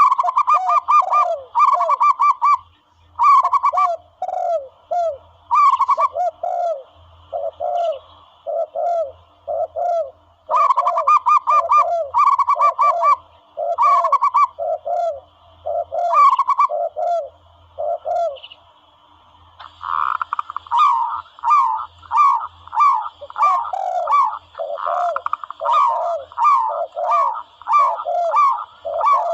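Recorded dove calls of the kind played as a hunting lure: quick runs of short cooing notes, repeated over and over, with a lower series of notes answering beneath them. There is a brief lull about two-thirds of the way through, then the calls come thicker and faster.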